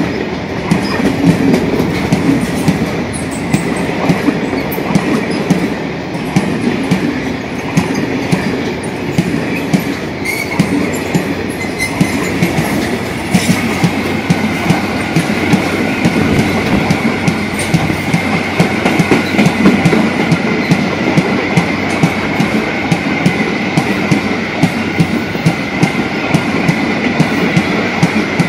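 Freight train wagons rolling past, with a dense, uneven clicking of wheels over rail joints. From about halfway through, a steady high squeal of wheels on the rails joins in.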